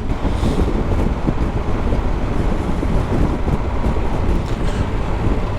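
Steady wind noise on the microphone over the low rumble of a Triumph Tiger 1200 GT Explorer motorcycle under way on the road.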